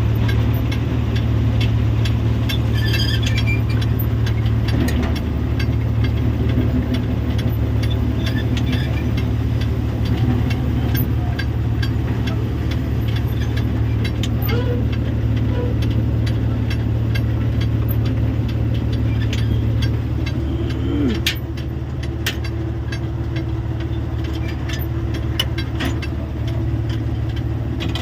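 An engine running steadily with a low, even drone, with scattered faint clicks and ticks over it; it gets slightly quieter about three quarters of the way through.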